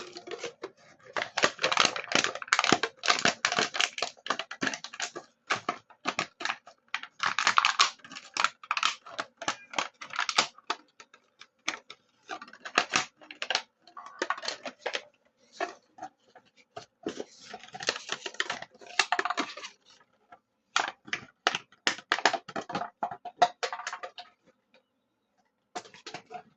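Plastic bottle crackling and clattering as a dog plays with it: bursts of rapid, irregular crinkling clicks, with short pauses between them, including one about twenty seconds in.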